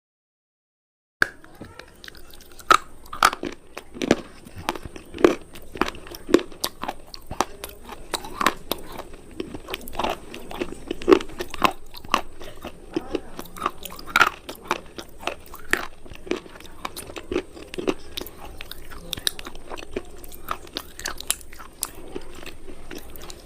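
Coloured crunchy cubes being bitten and chewed close to the microphone: a string of sharp, crisp crunches, the loudest about once a second. It begins after about a second of dead silence.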